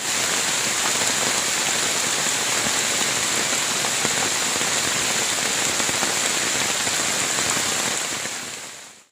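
Heavy rain falling steadily, a dense, even hiss that fades out near the end.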